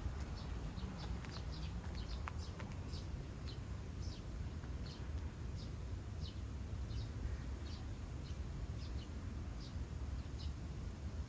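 Small birds chirping: short, high chirps repeating about once or twice a second, over a low steady rumble.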